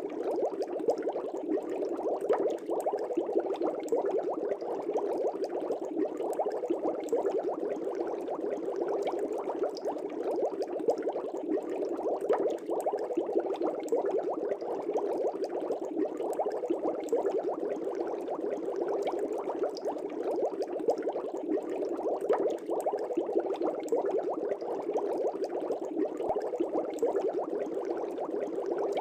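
Air bubbling steadily in a fish tank: a continuous dense stream of small bubbles rising through the water.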